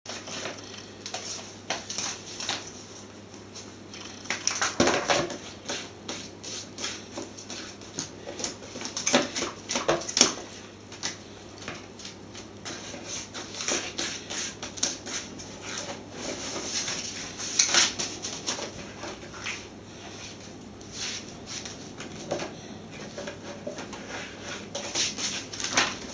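Kitten chewing and tearing paper leaflets: irregular crackling and rustling of paper, with louder bursts of crinkling about 5, 10 and 18 seconds in.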